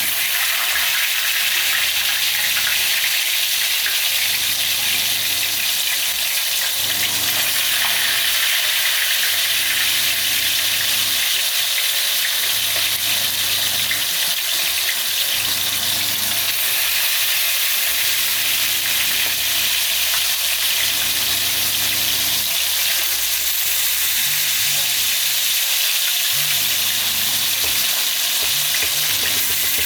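Slices of barracuda frying in hot oil: a steady, loud sizzle that starts suddenly as the fish goes into the pan.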